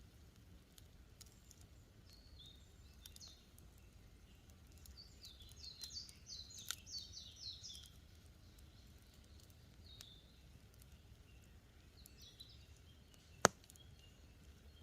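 Wood campfire crackling with scattered small pops and one sharp, loud pop near the end, while small forest birds chirp and call, most busily in the middle.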